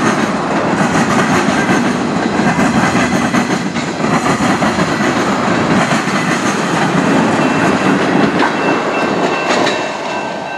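Freight train's tank cars rolling past, steel wheels clacking over the rail joints with a steady rumble that eases slightly near the end as the last cars move away.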